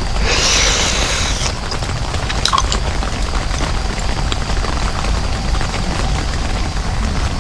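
Heavy rain drumming steadily on a tent shelter, with a brighter hiss lasting about a second near the start and a few light clicks a little later.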